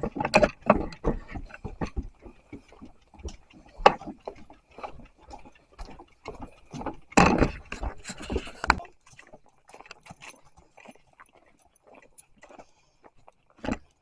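Footsteps on a walking trail, about two steps a second, louder for a moment about seven seconds in, then fainter and sparser.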